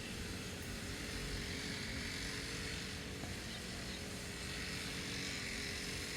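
Motorized grass cutter running steadily, an unbroken engine drone.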